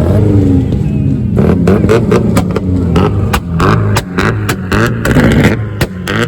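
Car engine revving hard, with rapid sharp cracks and pops from the exhaust starting about a second and a half in.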